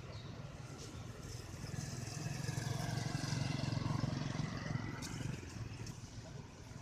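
A motor vehicle passing on the road: its engine and tyre noise swell to a peak about three to four seconds in, then fade away.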